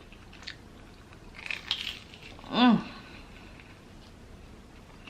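Quiet chewing and small mouth clicks of a person eating a Korean corn dog, with a short hum about two and a half seconds in.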